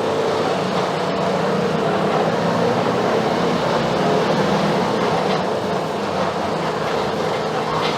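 Mercedes-Benz OF-1721 BlueTec 5 bus's diesel engine running steadily with the bus under way, mixed with road and body noise.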